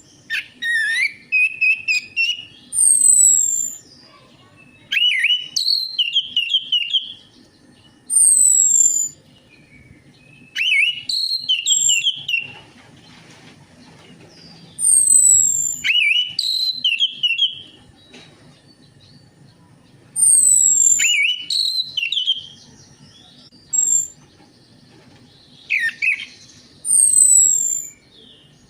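Orange-headed thrush song: short, varied phrases repeated every two to three seconds, mixing high descending whistles with quick lower notes.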